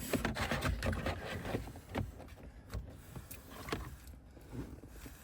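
Scattered clicks and light knocks of hand-work on a car's ignition and steering-column trim, over a low steady rumble.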